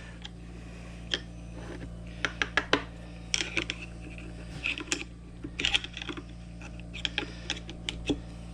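Irregular small metallic clicks and taps of snap ring pliers and a snap ring being worked onto a guide pin of a key machine, over a steady low hum.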